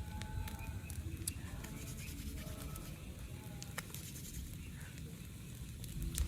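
Storm ambience at a campsite: a steady low rumble of wind and rain, with scattered sharp ticks and one louder tick near the end. A few short, faint whistly tones come in the first few seconds.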